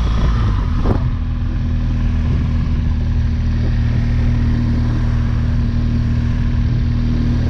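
BMW R1200GS Rallye's flat-twin boxer engine running steadily under way as the bike climbs a mountain road. There is a short knock about a second in, and after it the engine holds a steady tone.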